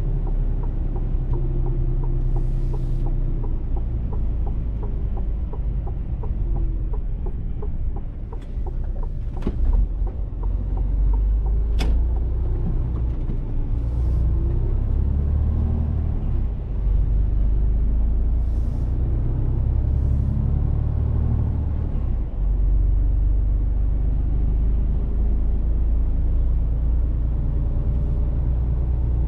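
Mercedes-Benz Actros truck's diesel engine running under way, a heavy low rumble whose note rises and falls with road speed. A few short, sharp hisses or clicks stand out above it.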